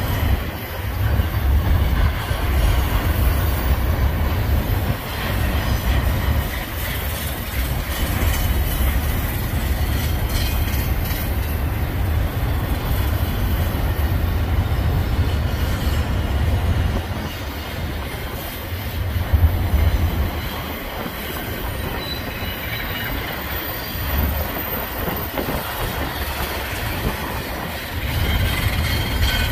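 Double-stack intermodal freight train of container well cars rolling past at steady speed: a continuous rumble of steel wheels on the rails that swells and eases as the car trucks pass, with clicking over the rail joints and faint high wheel squeal in the second half.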